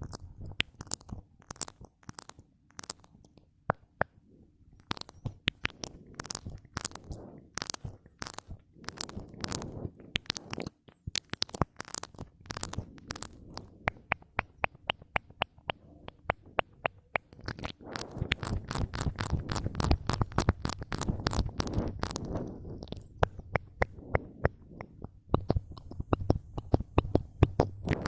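ASMR mouth sounds made close to the microphone: quick wet clicks and smacks of lips and tongue, irregular and many to the second, thinning out briefly early on and running densest with a fuller wet undertone past the middle.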